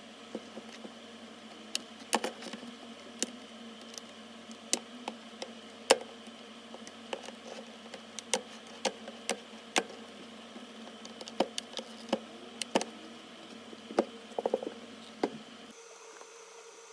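A small electric device hums steadily and switches off near the end. Over it come irregular sharp clicks and taps of hand tools working on the LCD panel while the old polarizer film is removed.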